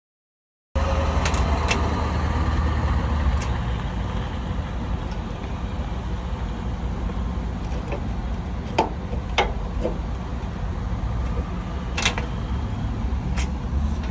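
Steady low rumble of a semi-truck's diesel engine running, with a few sharp clicks and knocks scattered through it. It cuts in abruptly under a second in.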